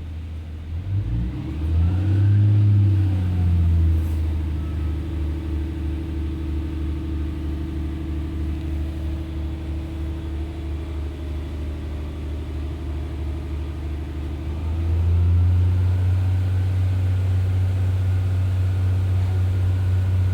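Diesel engine of an ex-Northern Class 144 Pacer railbus working under power. Its note climbs and falls back about two seconds in, then runs steadily and gets louder again about fifteen seconds in.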